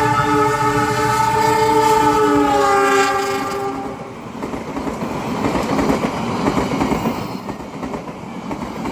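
Train horn sounding a held chord that drops slightly in pitch and stops about three and a half seconds in, followed by the steady noisy rumble of the train running past.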